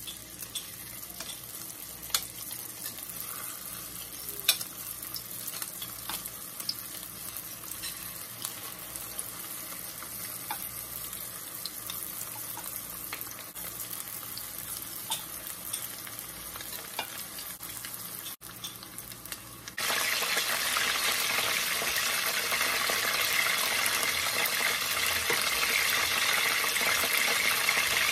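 Spring rolls deep-frying in hot oil, a steady sizzle with scattered crackling pops. About two-thirds of the way through the sizzle abruptly becomes much louder and denser.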